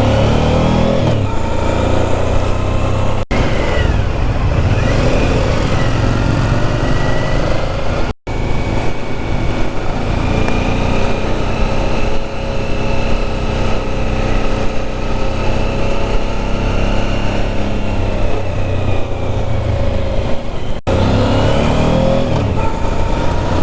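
Motorcycle engine running under way, its pitch rising and falling gently with the throttle, over low wind rumble on the microphone. The sound drops out for an instant about eight seconds in.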